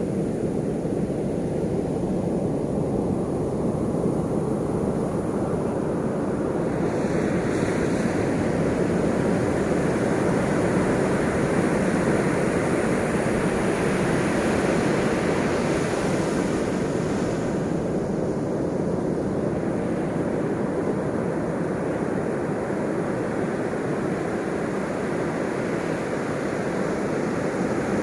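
Ocean waves rushing and washing ashore without a break, one larger wave surging up about a quarter of the way in and easing off a little past halfway.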